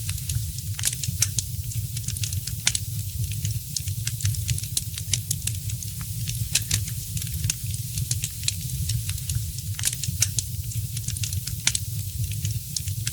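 Fire in a fireplace crackling, with many sharp irregular pops and snaps over a steady low rumble and soft hiss.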